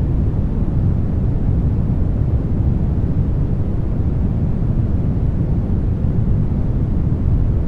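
Steady brown noise: an even, deep hiss, strongest in the bass and fading toward the treble, with no change throughout.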